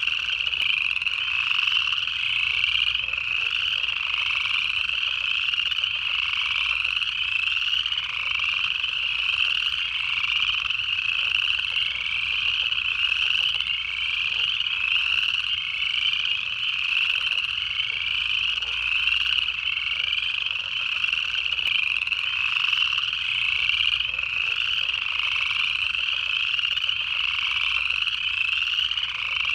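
Dense chorus of upland chorus frogs: many overlapping rising trills merge into a steady, unbroken wall of calls.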